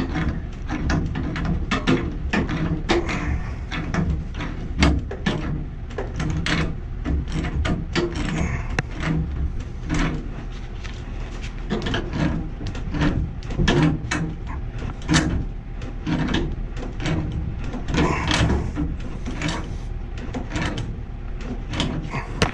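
Threaded gas pipe fittings being worked by hand with a wrench: a steady run of short metallic clicks, knocks and scrapes over a constant low hum.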